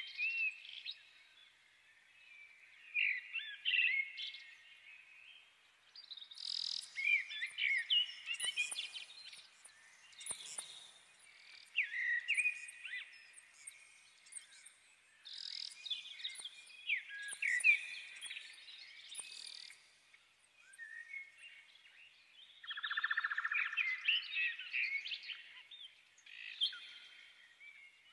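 Small birds chirping and singing in quick, high phrases of warbles and trills, broken by short pauses.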